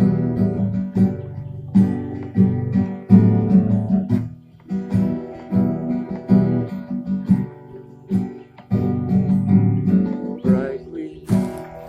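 Acoustic guitar strummed and plucked in a steady rhythm, an instrumental passage of a song, with brief drops in level twice.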